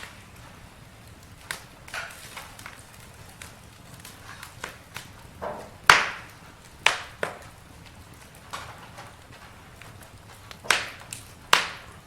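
Wood campfire crackling and popping, with irregular sharp snaps over a low hiss. The loudest pops come about halfway through and again near the end.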